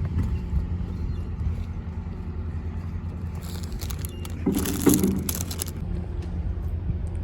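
Engine running steadily with a low drone. A hissing burst comes in about three and a half seconds in and lasts a couple of seconds.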